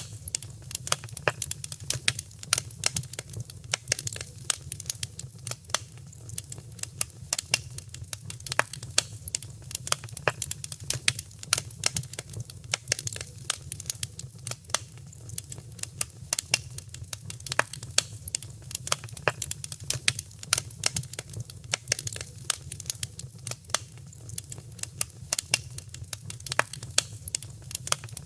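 Wood fire crackling in a fireplace: dense, irregular sharp pops many times a second over a low steady rumble.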